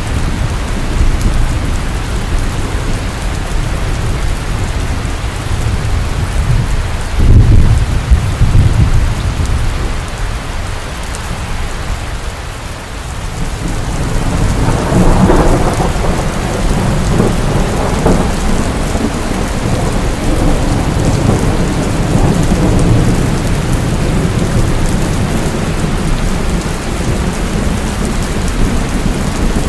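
Steady heavy rain with thunder. A loud rumble comes about seven seconds in, and a longer rumble builds and rolls on from about halfway through.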